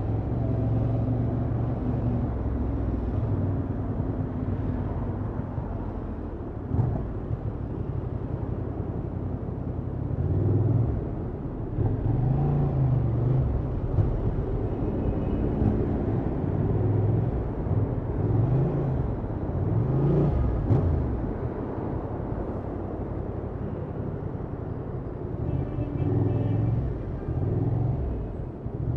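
Honda XL750 Transalp's parallel-twin engine running through its stock exhaust under the rider, revs rising and falling several times midway as the bike speeds up and slows in traffic.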